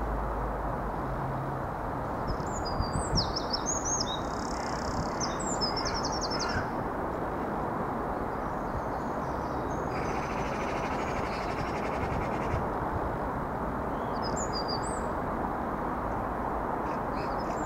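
Small birds chirping in short bursts over a steady outdoor rumble. The faint engine hum of a receding Irish Rail 22000 class diesel multiple unit dies away in the first second or two. A faint hiss lasts a couple of seconds around the middle.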